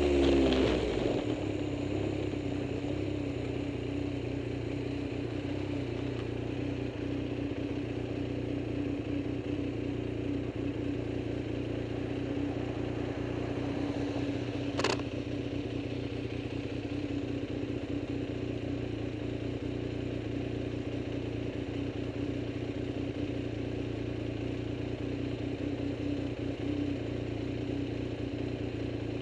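A vehicle engine idling steadily, settling to an even idle about a second in, with one sharp click about halfway.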